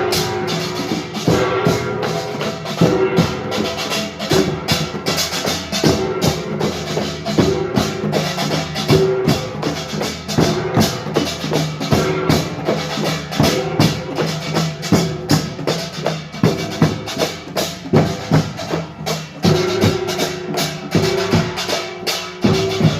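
Korean pungmul percussion ensemble of small hand gongs and drums playing a fast, driving rhythm of dense, evenly repeating strikes without a break.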